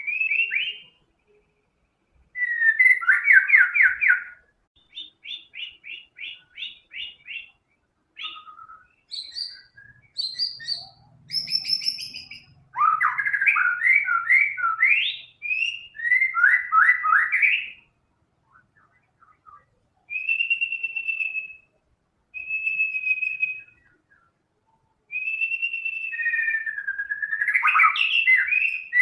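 White-rumped shama (murai batu) singing a varied song of learned, mimicked phrases: fast rattling trills, quick chirping runs and clear held whistles, each phrase followed by a short pause.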